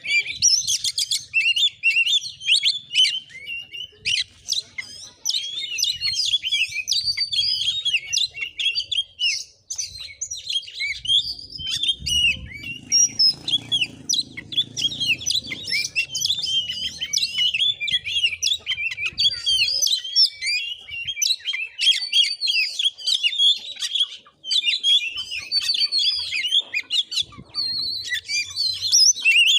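Oriental magpie-robin singing a continuous, rapid, varied chattering song with almost no pauses.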